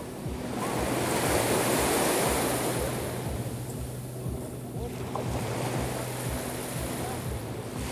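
Black Sea surf: a wave washes in about a second in and drains back by halfway, and the next begins to build near the end. A faint steady low hum runs underneath.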